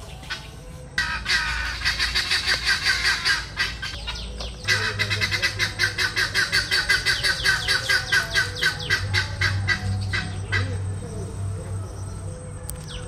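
A bird calling in fast runs of repeated notes, about ten a second. One run lasts about three seconds, then after a short break a longer run of about six seconds fades out.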